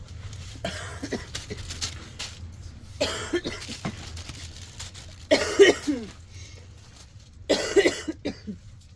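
A woman with a cold coughing in several separate fits, the loudest two about five and seven and a half seconds in.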